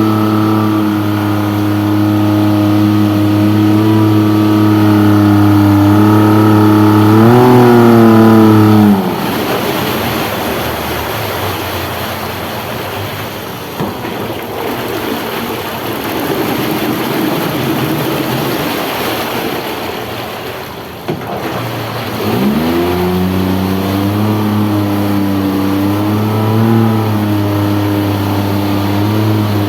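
Suzuki DF30 four-stroke outboard motor running at a steady speed, with a brief rise in revs about eight seconds in. Its note then gives way to a loud rushing noise for about thirteen seconds, and the engine note returns, climbing in pitch, near the end.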